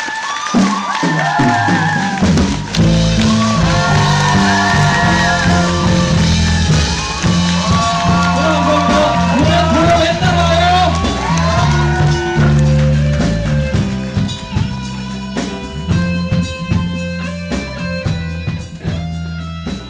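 Live band music: singing voices over bass and guitar accompaniment. About two-thirds of the way through, the voices drop out and a plucked guitar pattern carries on alone.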